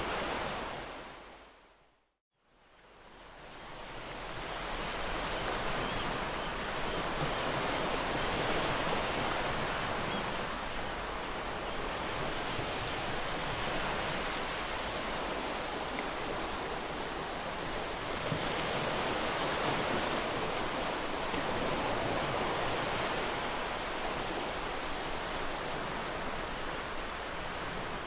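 Ocean surf: waves breaking and washing on the shore as a steady rushing wash with slow swells in loudness. About two seconds in the sound fades out to silence and fades back up over the next couple of seconds, a loop splice in the recording.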